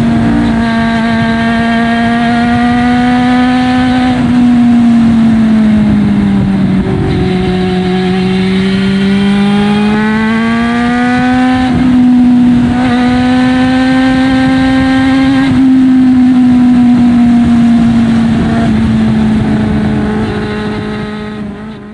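Honda CB400 Super Bol D'or's inline-four running through a Yoshimura titanium 4-1 full exhaust, held at steady high revs. The pitch sags and rises again slowly around the middle, then eases down and fades out at the end.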